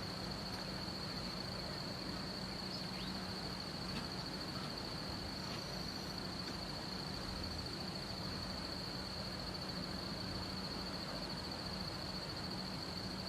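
An insect's steady, high-pitched trill without a break, over an even hiss and a low steady hum.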